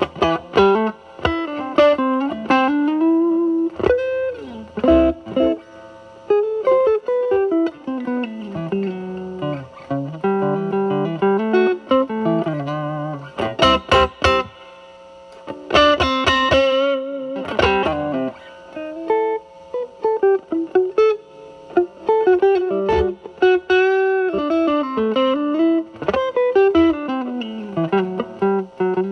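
Electric guitar through a Mosrite Fuzzrite clone fuzz pedal (2N2369 silicon transistor) set to about half fuzz, Telecaster into a Marshall Valvestate drive channel, playing single-note lead lines with string bends and vibrato.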